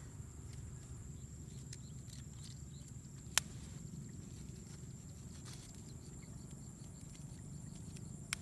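A single sharp click or knock about three and a half seconds in, over a steady low rumble with a few faint ticks.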